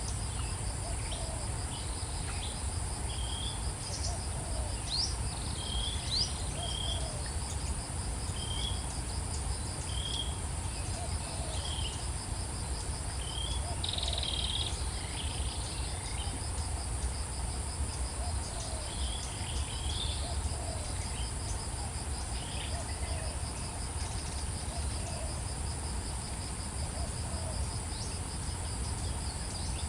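Steady high-pitched insect chorus, like crickets, running without a break. Short high chirps repeat about once a second through the first half.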